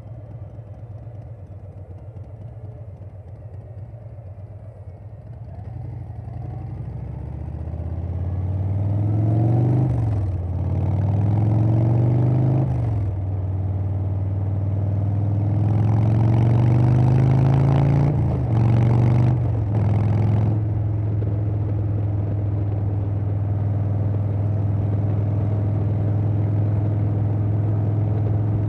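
Harley-Davidson Softail Standard's Milwaukee-Eight V-twin through a Vance & Hines Big Radius 2-2 exhaust, at first running low and quiet, then accelerating up through the gears: the pitch climbs and drops sharply at each of four shifts, with wind rising alongside. It then settles into a steady cruise.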